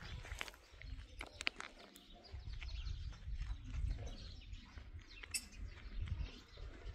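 Birds chirping now and then over outdoor background noise, with scattered light knocks and a low rumble that grows stronger about two seconds in.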